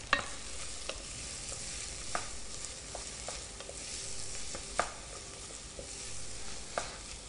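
Diced shallots sizzling softly and steadily as they sweat in melted butter in a stainless steel saucepan. A wooden spoon stirs them, with a few sharp knocks against the pan.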